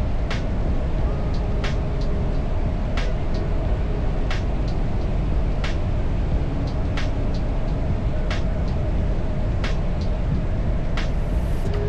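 Riding noise from a moving motorcycle: heavy wind rush on the camera microphone over the running BMW R1300 GS, with a sharp tick about every second and a half.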